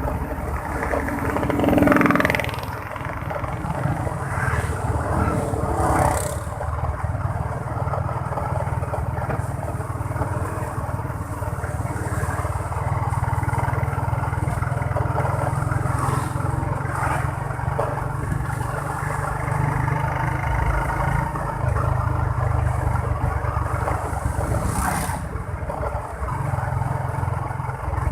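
Motorcycle engine running while the bike is ridden through road traffic, loudest for a moment about two seconds in as the pitch slides.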